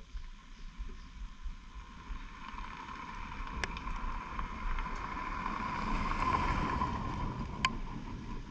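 Motorcycle running on the move with wind rushing over the microphone. It grows louder to a peak about six seconds in, then eases, with two sharp clicks along the way.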